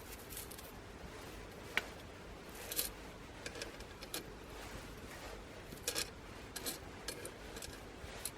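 Small twigs burning in a wood fire, crackling with irregular sharp pops and snaps over a faint steady hiss.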